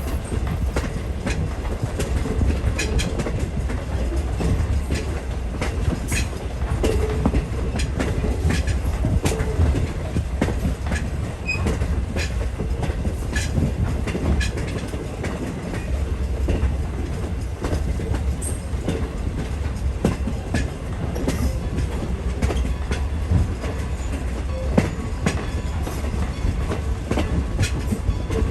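Passenger coach of a moving train heard from on board: a steady low rumble with wheels clicking and clattering over rail joints, and a faint wheel squeal now and then.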